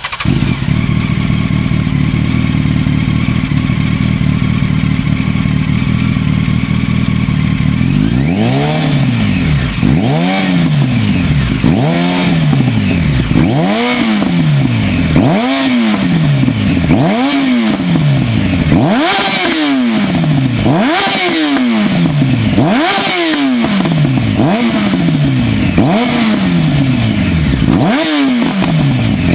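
2007 Yamaha FZ1 S Fazer's inline-four engine through a Mivv Suono carbon slip-on exhaust, really loud. It idles steadily for about eight seconds, then is blipped about a dozen times, the note rising and falling back with each rev, roughly every one and a half to two seconds.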